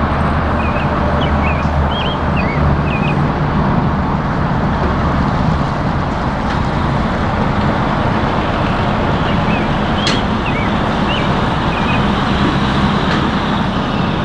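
Steady vehicle and road noise, with a few short high chirps about two seconds in and again about ten seconds in.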